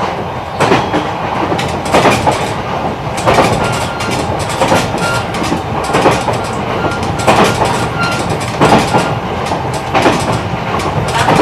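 E129 series electric train running at speed, its wheels clacking over rail joints about every 1.3 seconds over a steady rumble of wheels on rail. A faint high steady tone comes and goes.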